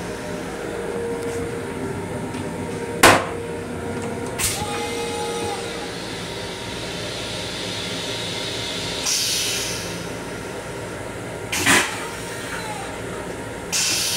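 Running noise of a Long Island Rail Road M7 electric railcar heard inside its small restroom: a steady hum with a few sharp knocks and two short hisses of air.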